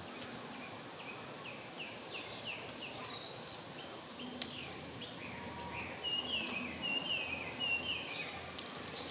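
A bird calling a rapid series of short, falling notes, about three a second, growing louder and longer in the second half, over a steady background hiss.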